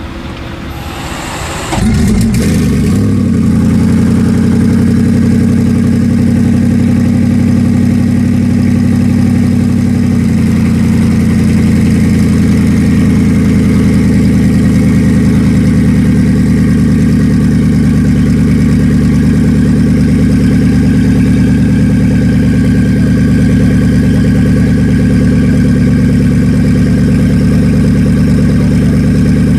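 Koenigsegg Regera's twin-turbo V8 firing up about two seconds in, then idling steadily; the idle settles slightly lower about ten seconds in.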